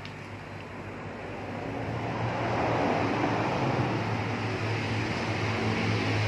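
Motor-driven noodle machine running with a steady low hum; a louder rushing noise builds about two seconds in and holds.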